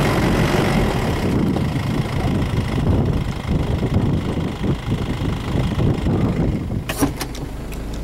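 Car engine running, heard from inside the cabin: a steady low rumble whose hiss eases off after the first few seconds. A few sharp clicks come near the end.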